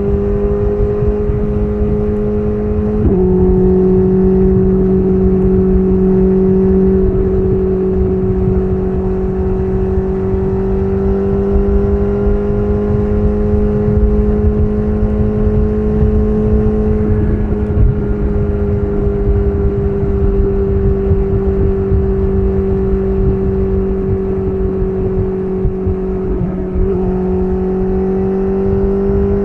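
BMW S1000RR's inline-four engine running through an SC Project CR-T titanium exhaust at steady cruising revs, the note drifting slightly up and down. There is a short break in the note about three seconds in and again near the end, under a low rumble.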